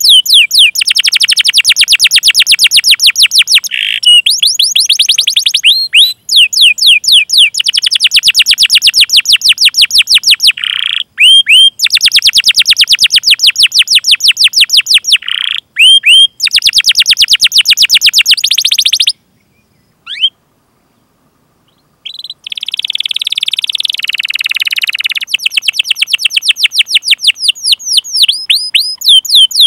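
Domestic canary singing long trains of rapid, evenly repeated sweeping chirps, many to the second, broken by short pauses. After a pause of about three seconds past the middle, it gives a buzzier rolling trill, then goes back to the chirp trains.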